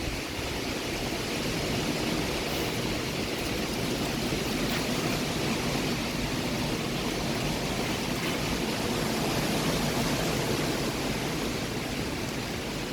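Severe storm wind blowing steadily: a constant, even rushing noise with no breaks.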